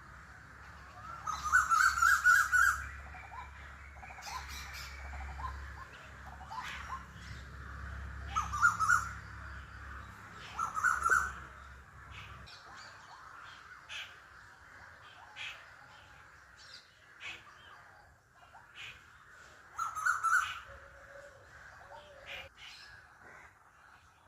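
Birds calling outdoors: a few loud bursts of harsh, rapidly repeated calls, with short chirps in between. A low background hum stops about halfway through.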